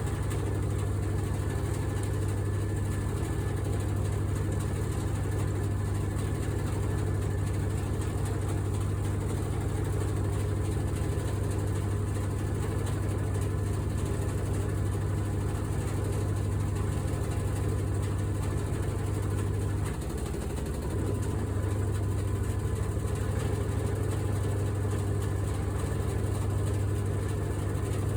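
Washing machine shaking badly as it runs, a steady low drone with a fine rattle over it. The drone dips for about a second around twenty seconds in, then comes back.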